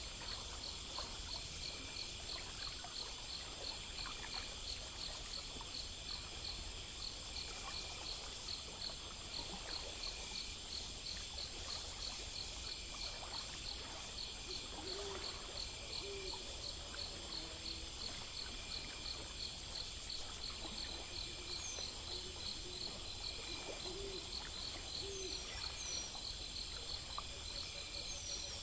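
Night insect chorus of crickets chirping in steady, fast-pulsing high trills. Several short low calls come in about halfway through, over a faint low rushing background.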